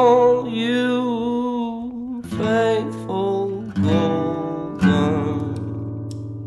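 A held sung note with vibrato over strummed acoustic guitar. Then three separate guitar strums follow, and the last chord rings out and slowly fades.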